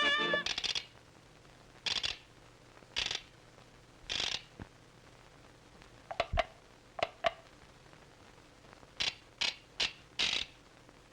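Old cartoon-soundtrack mechanical sound effects: short, spaced-out hissing puffs and a few sharp metallic clicks and clanks, over a faint film-soundtrack hiss. Music ends just after the start.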